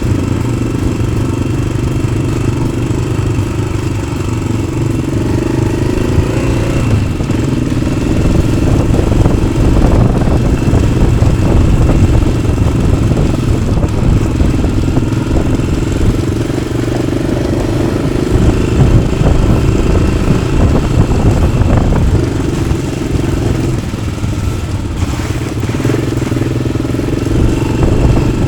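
Yamaha XT600's single-cylinder four-stroke engine running through an aftermarket Arrow exhaust while riding. The engine note rises and falls with the throttle and is louder for a stretch from about 8 to 14 seconds in.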